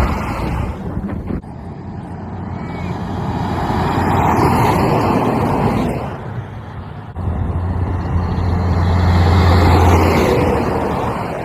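Trucks on a road: engine and tyre noise swelling and fading twice, with a steady low engine hum through the second swell.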